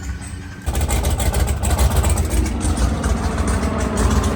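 LS V8 engine running with a loud, low exhaust rumble that comes in abruptly under a second in, after a faint rising siren tone at the start.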